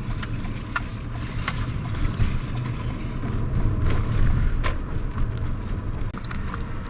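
Road noise of a moving car heard from inside the cabin: a steady low rumble with a few scattered sharp ticks.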